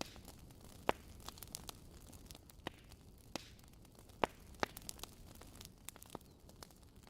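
Wood fire crackling in a fireplace: irregular sharp pops and snaps over a low steady rumble and hiss, the loudest pops a little under a second in and about four seconds in.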